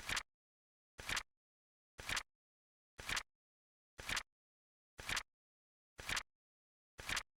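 Flip clock sound effect ticking once a second, each flip a short double-edged click with complete silence between.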